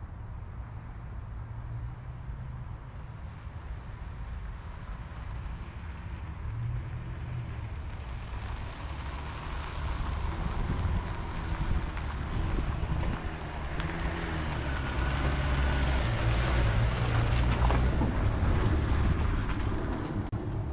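Datsun 521 pickup truck driving, its engine running with road and wind noise that grow steadily louder as it picks up speed.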